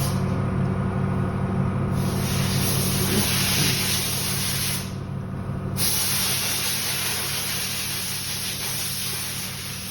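Volvo XC90 engine being turned over with a steady low drone, while a loud hissing spray comes out in two long bursts, the second starting about six seconds in. The spray is water, with some oil, being blown out of an engine that took in water.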